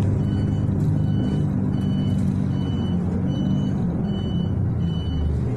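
City bus engine running, heard from inside the cabin, with a short high electronic warning beep repeating evenly, a little more than once a second.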